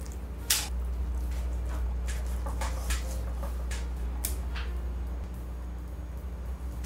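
Kitchen knife and hands working a sea bass fillet on a wooden cutting board: a few scattered knocks and scrapes, the loudest about half a second in, over a steady low hum.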